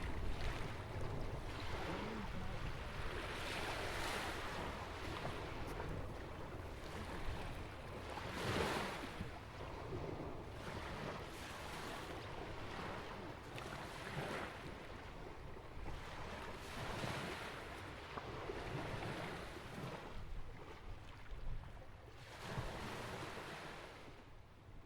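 Atlantic waves breaking and washing along a rock jetty and sandy beach, a surge every few seconds over a constant low rumble. The sound drops away at the very end.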